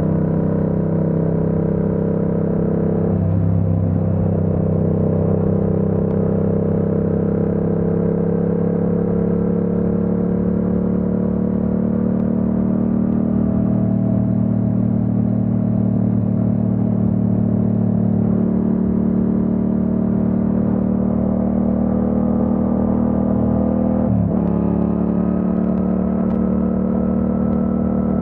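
Yamaha MT-07's parallel-twin engine running at steady cruising revs, its pitch drifting slightly, with a quick dip and recovery in revs about three seconds in and again near the end.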